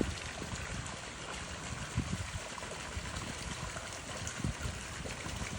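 Steady trickling, running water with a few soft low bumps.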